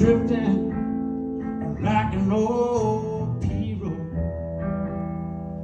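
Music: an acoustic guitar playing the introduction of a song, with sustained notes.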